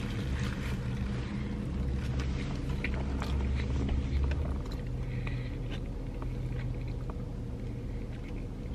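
A person chewing a big mouthful of burger, with many small wet mouth clicks and smacks, over a steady low hum inside a car.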